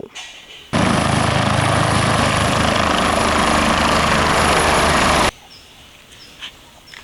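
Helicopter sound, rotor and engine together with a faint steady pulsing, switching on abruptly about a second in and cutting off suddenly after about four and a half seconds.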